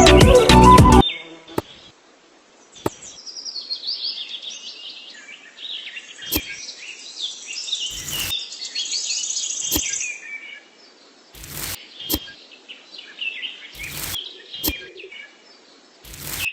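Music that cuts off about a second in, then birds chirping and twittering in quick, warbling notes. Sharp clicks or knocks are heard every second or two.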